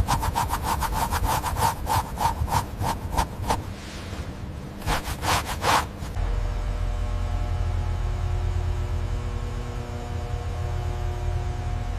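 Quick, rhythmic rubbing or scraping strokes, about five a second, that stop about three and a half seconds in, then a short second run of strokes. After that comes a steady low hum.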